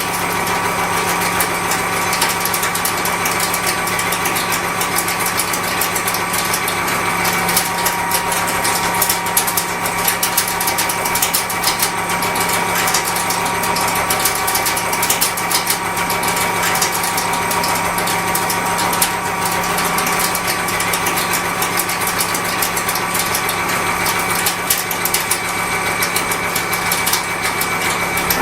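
Milling machine cutting steel with a disc milling cutter: a steady machine hum under a dense, rapid rattle of the cutter's inserts striking the workpiece.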